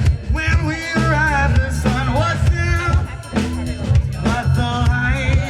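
Live rock-funk band playing: drum kit and bass guitar holding a steady groove under electric guitar, with a bending melody line over the top.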